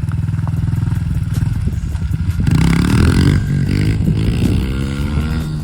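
Pit bike engines revving hard, accelerating away from a drag-race start. Their pitch climbs and the sound peaks about two and a half seconds in.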